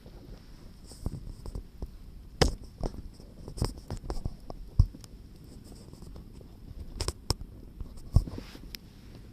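Hardwood firewood burning in an open fire, crackling with irregular sharp pops, a few of them much louder than the rest.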